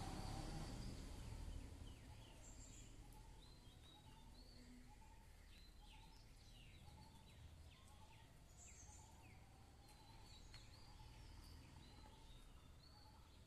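Faint small birds chirping: many short, quickly falling chirps, with a lower short call repeated about twice a second. A louder hiss fades away in the first two seconds.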